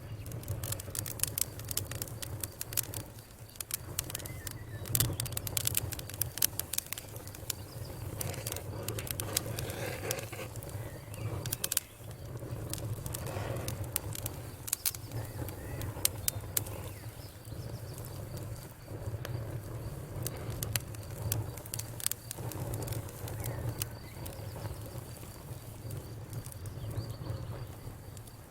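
Wood fire crackling: dense, irregular sharp pops and snaps over a steady low rumble of the burning.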